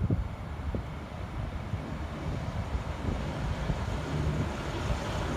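V/Line diesel train rumbling low and steady at the station platform, growing slowly louder, with wind noise on the microphone.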